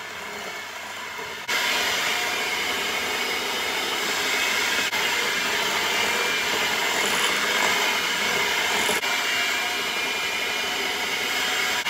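Electric hand mixer running with its beaters in a glass bowl, whipping cream cheese frosting as powdered sugar is added. It gets louder about a second and a half in, then runs steadily.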